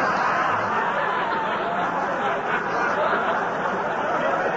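Studio audience laughing steadily after a joke, a dense crowd laugh that carries on without letting up.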